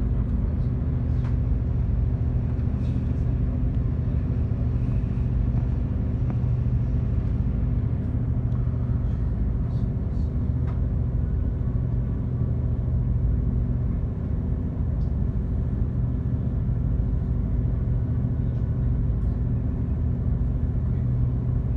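Passenger ferry's engines running steadily under way: a constant low drone with a steady hum.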